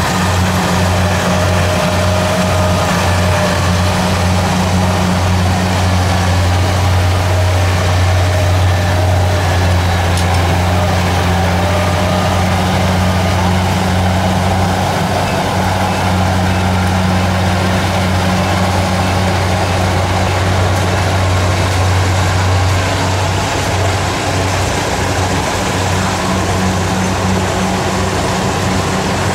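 Kubota DC70 rice combine harvester running steadily, its diesel engine and threshing gear making a loud, even, deep hum.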